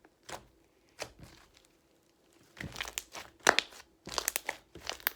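Homemade slime being squeezed and worked by hand, giving irregular crackling pops. There are a few at first, then a busy run of crackles from about halfway through.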